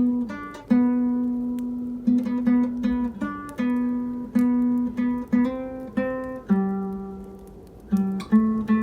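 Nylon-string classical guitar (an Almires) playing a slow single-note melody, one plucked note at a time, each ringing and fading before the next. The same note repeats many times, with a dip to a lower note about two-thirds of the way through.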